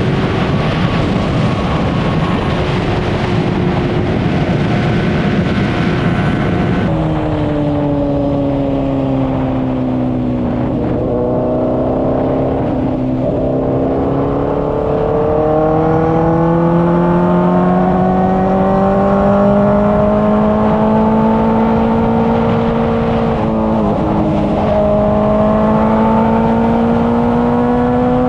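Honda CBR600RR inline-four sportbike engine under way at speed, at first half-buried in loud wind rush. About seven seconds in, the wind noise drops away and the engine comes through clearly: its pitch falls as the bike slows, then climbs steadily under acceleration, with a short dip near the end as it shifts up a gear.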